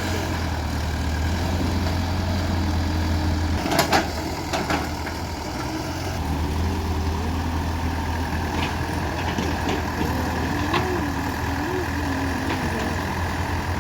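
Heavy diesel engine running steadily at idle, its low hum easing for a couple of seconds. A few sharp metallic knocks come about four seconds in.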